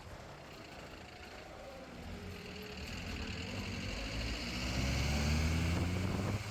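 A motor vehicle's engine running, growing louder from about two seconds in and loudest near the end, its pitch rising slightly as it speeds up or draws near.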